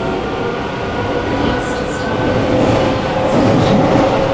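Sendai City Subway 1000N-series train running through the tunnel, heard from inside the car: a steady rumble of wheels on rail under a constant whine from the traction motors.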